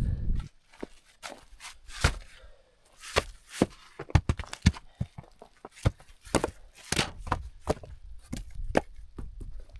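Dry branches being snapped and broken up for firewood: a string of sharp, irregular cracks and snaps, some sharper than others.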